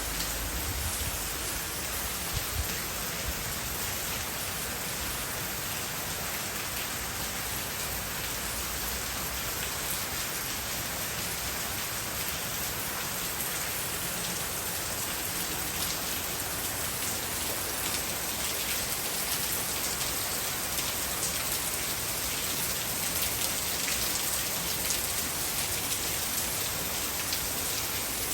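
Heavy rain pouring down in a dense, even hiss that grows slightly louder toward the end.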